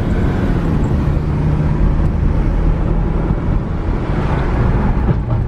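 Car driving along the road: a steady low rumble of engine and tyre noise with a constant low hum.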